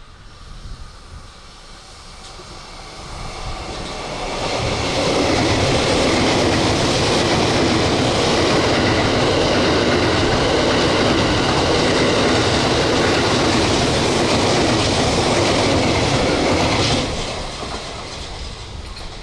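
Train passing at speed. Its noise swells over a few seconds, holds loud and steady for about twelve seconds, then drops off sharply and fades as it goes by.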